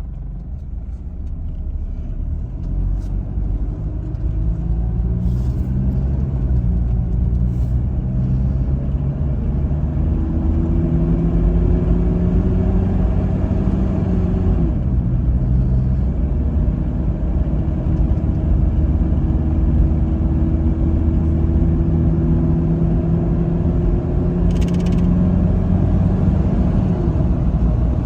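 Turbo-diesel engine of a 1991 Mitsubishi Delica Star Wagon 4WD van pulling under acceleration, its pitch climbing slowly. About halfway through the pitch drops, as at a gear change, then climbs again.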